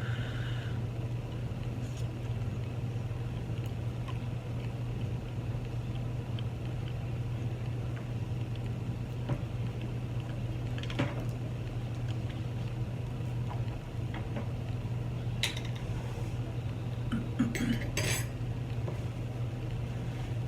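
A fork or utensil clinking and scraping on a dish of chili cheese fries, with a few sharper clinks about halfway through and a cluster near the end, over a steady low hum.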